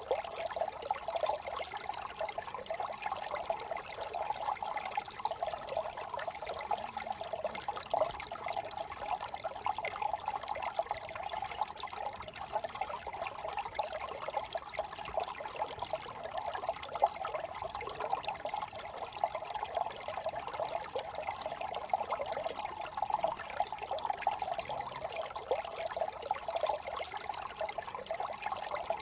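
A small brook trickling and babbling steadily over stones.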